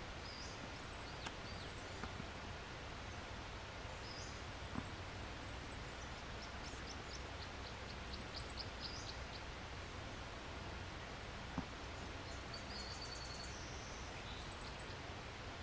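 Steady outdoor background hiss and low rumble, with faint high-pitched chirps of small birds scattered throughout and a short rapid trill about halfway through. A few single soft taps stand out.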